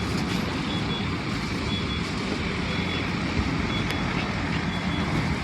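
Steady low vehicle rumble, with a faint high-pitched reversing alarm beeping about once a second.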